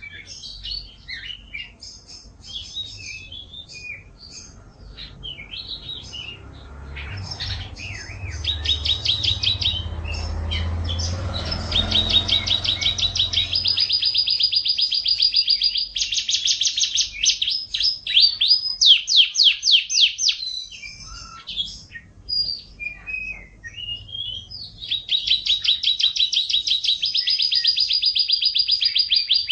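Domestic canary singing a long, varied song, with fast rolling trills and strings of rapid repeated notes.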